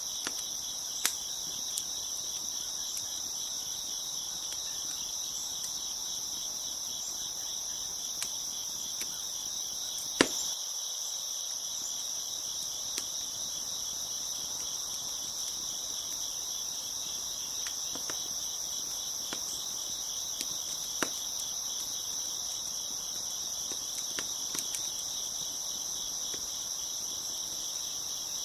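A chorus of crickets chirping steadily, with scattered sharp pops and crackles of a wood fire, the loudest pop about ten seconds in.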